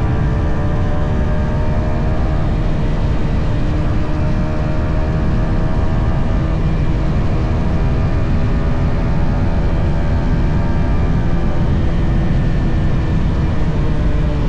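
Yamaha XSR 155's stock-exhaust single-cylinder engine running steadily on the move, its pitch drifting slightly up and down, over a heavy low rumble.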